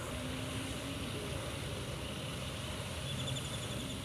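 Steady low outdoor rumble with no sharp events, and a brief rapid high-pitched trill for about the last second.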